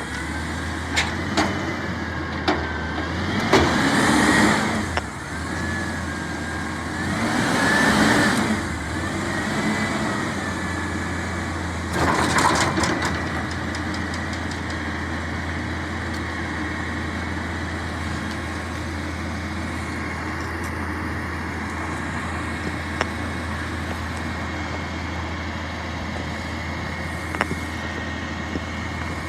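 Garbage truck's diesel engine running steadily, with three louder surges of rushing noise about four, eight and twelve seconds in, a faint wavering whine and occasional clicks.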